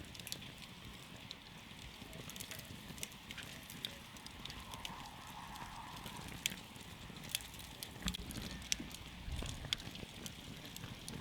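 Wood campfire crackling, with irregular sharp pops and snaps over a low, steady rumble of burning.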